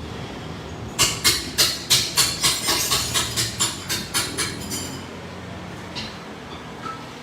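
A rapid series of about fifteen sharp metal-on-metal strikes with a ringing edge, three to four a second, growing weaker as they go: hammer blows on a steel part during suspension work, over steady shop background noise.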